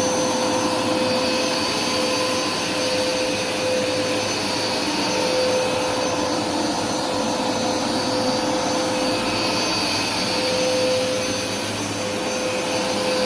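Hoover Smartwash carpet washer running steadily, its suction motor making a constant rushing noise. A whistling tone drops out briefly a few times, near the middle and again towards the end.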